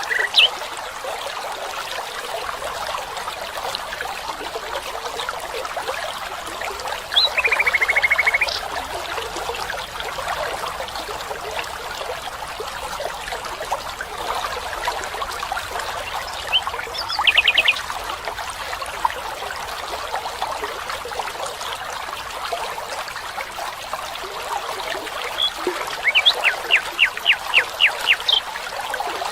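Small stream running with a steady trickle, with bird calls over it: a rapid trill about seven seconds in, a short burst of quick notes around the middle, and a series of about ten notes, some four a second, near the end.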